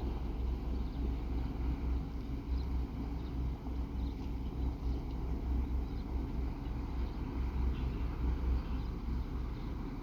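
Ferry Taiko's engines running with a steady low rumble and a faint steady hum.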